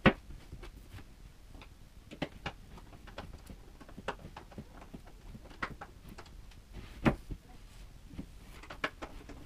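Scattered light knocks and clicks, spaced a second or more apart, with the loudest knock at the very start and another about seven seconds in.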